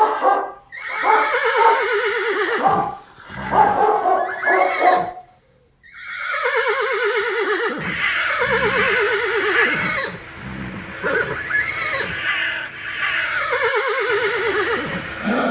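Horses whinnying, several neighs one after another, each a quavering call that falls in pitch.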